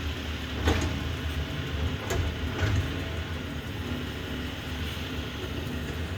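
Garbage truck engine running steadily at a low hum, with a few sharp metallic clanks about a second in and again around two seconds in.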